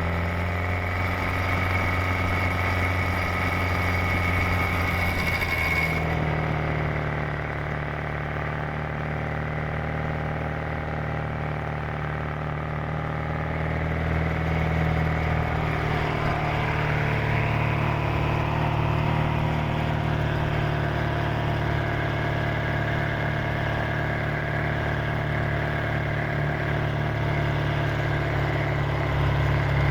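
Supercharged 1328 cc MG XPAG four-cylinder engine of an MG TA Special running steadily through a side-exit exhaust as the car drives along.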